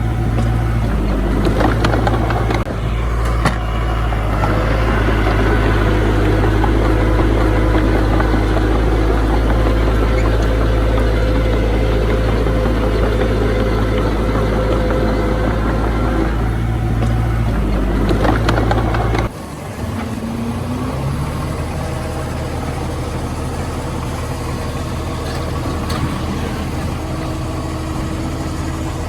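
Heavy diesel earthmoving machinery running, a steady low engine rumble. About two-thirds of the way through it drops abruptly to a quieter, steady engine sound.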